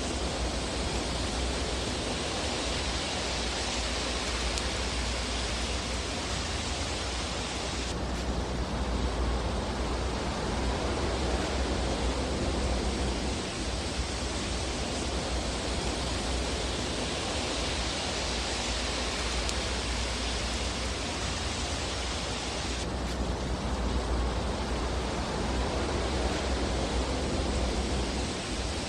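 Fireplace fire ambience: a steady hiss over a low rumble, with no distinct crackles or pops. The hiss changes abruptly twice, about fifteen seconds apart.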